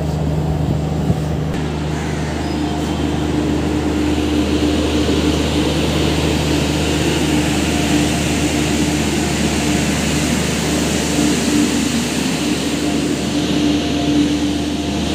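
Steady low drone of train engines at a railway platform. About four seconds in, a wider rushing rumble and a firmer hum build up and hold as another train comes in.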